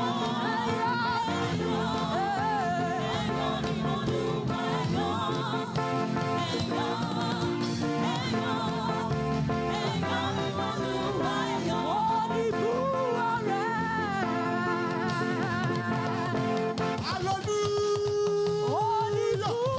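Live gospel praise music: voices singing a Yoruba praise song over a band. Near the end a long note is held steady.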